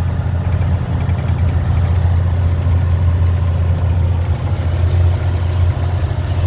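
Truck diesel engine running with a steady low drone.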